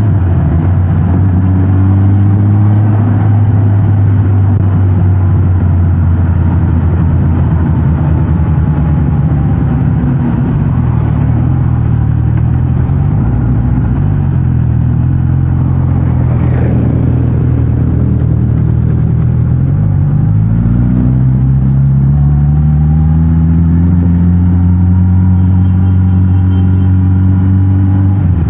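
Suzuki GSX-S1000GT's inline-four engine running through its stock exhaust while riding, holding a steady pitch for most of the time, then rising as it accelerates about two-thirds of the way through.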